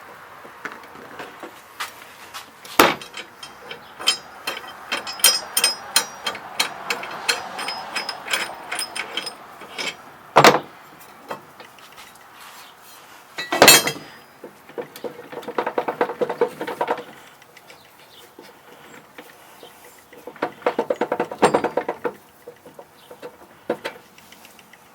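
Hand-tool work on a walk-behind mower's blade: sharp metal knocks and clanks, a stretch of clattering, then two short runs of fast, even clicking.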